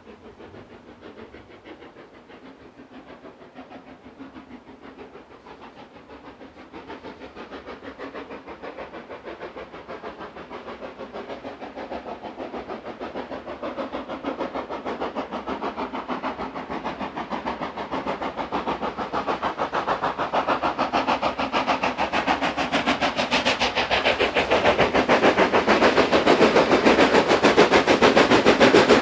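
Steam locomotive working hard, its exhaust beats coming in a fast, even rhythm and growing steadily louder as it approaches.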